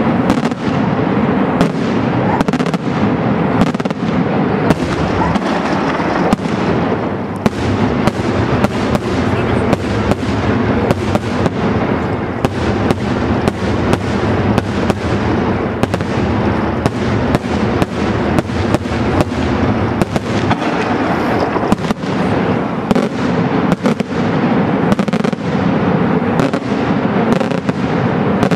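Daytime aerial fireworks display: a dense, unbroken barrage of shell bursts and sharp bangs, several a second, over a continuous wash of noise.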